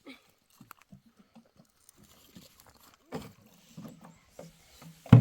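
Scattered short animal calls and small knocks, with a loud, sudden low call near the end.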